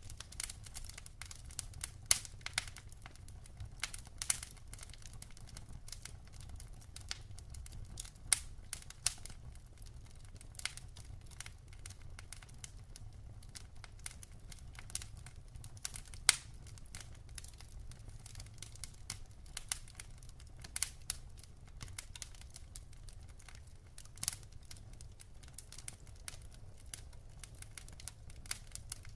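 Logs burning in a wood fireplace, crackling with irregular sharp snaps and pops over a low, steady rumble.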